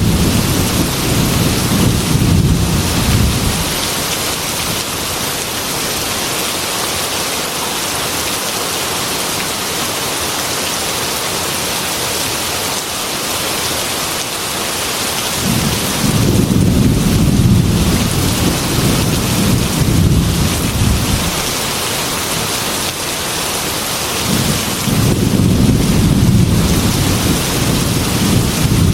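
Steady heavy rain on a glass window, with low rolls of thunder rumbling three times: at the start, for several seconds past the middle, and again near the end.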